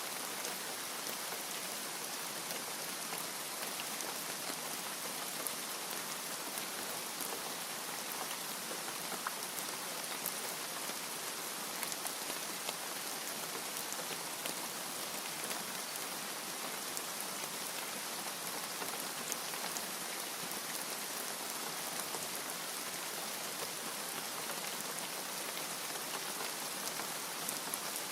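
Steady rain falling on a surface, an even hiss dotted with small drop ticks, with no thunder.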